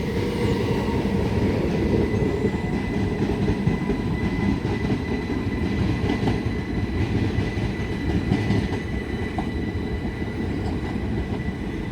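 Class 375 Electrostar electric multiple unit running on the station tracks: a steady loud rumble of wheels on rail with a thin steady high whine over it and a few faint clicks.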